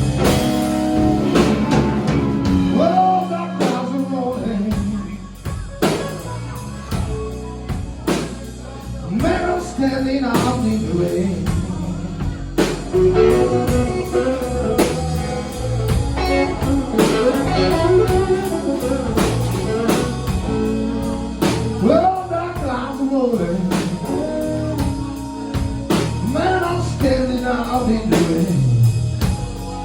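Slow blues played by a band, electric guitar with bent notes over a drum kit.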